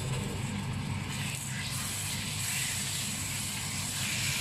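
Chicken strips sizzling steadily in hot oil with onions in a wok as they are stirred.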